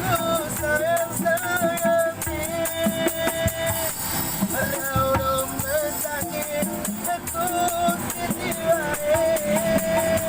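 Street busker singing a slow melody with long held notes, accompanied by a fast, steady shaken rattle.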